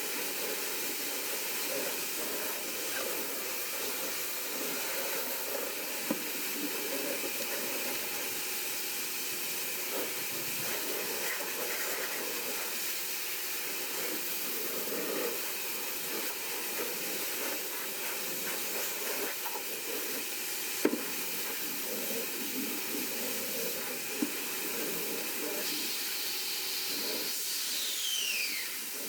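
Steady hiss of a high-pressure spray jet running without a break through the whole stretch, with a few sharp clicks and a short falling squeal near the end.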